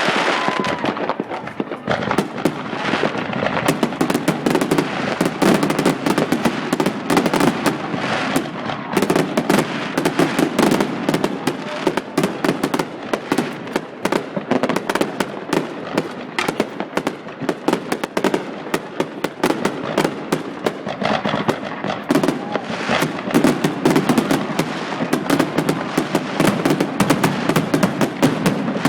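Fireworks going off in a continuous barrage of rapid, overlapping bangs and crackles, many per second, with a brief whistle about a second in.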